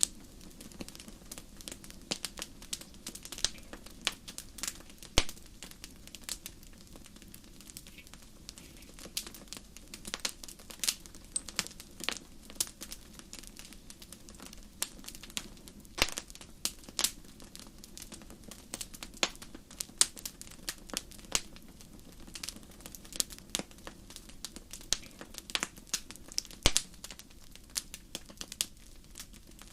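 Wood fire burning in a fireplace, crackling with frequent sharp irregular pops and snaps over a low steady rumble.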